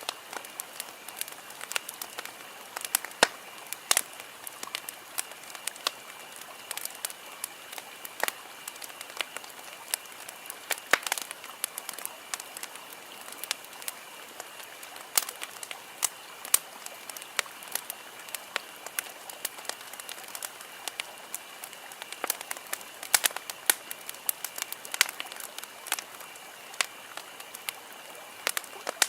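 Wood campfire crackling, with frequent sharp, irregular pops and snaps. A faint steady high-pitched tone runs underneath.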